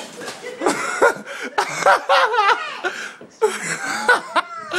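People laughing in repeated bursts.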